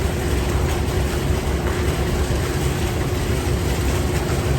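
Steady motor drone with a constant hum, under a fluctuating low rumble of wind on the microphone, typical of a small fishing boat under way.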